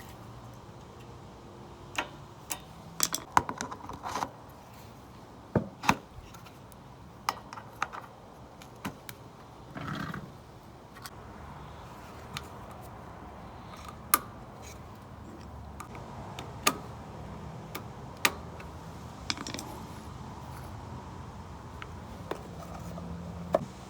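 Sharp metal clicks and clinks of hand tools and mower parts being fitted back together, scattered irregularly, thickest in the first few seconds, with a brief rustle about ten seconds in.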